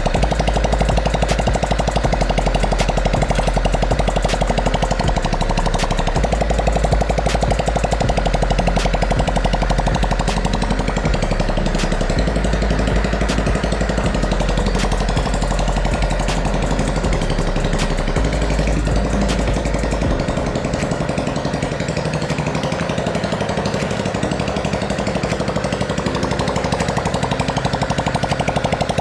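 Steady, rapid mechanical rattling from a machine or power tool, with a deep rumble underneath that drops away about twenty seconds in.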